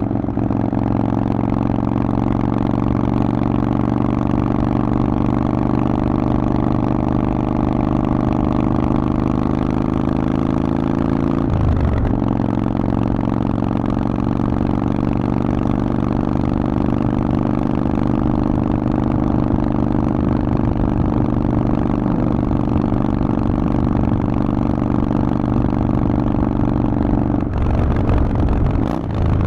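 Harley-Davidson Forty-Eight's air-cooled V-twin running through a Vance & Hines exhaust while riding. The pitch climbs slowly for about ten seconds, breaks briefly about twelve seconds in and drops to a lower steady note, as with an upshift, then holds steady. The note changes abruptly again near the end.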